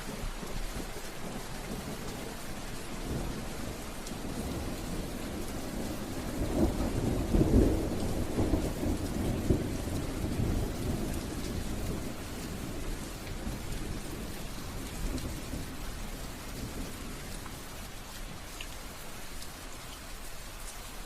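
Steady rain falling, with a roll of thunder that swells about a third of the way in, peaks, and rumbles away over several seconds.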